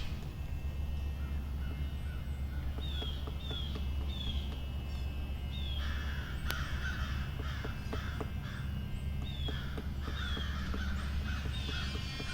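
Wild birds calling: a short, high, falling note repeated about twice a second, with harsh cawing calls in the middle stretch, over a steady low rumble.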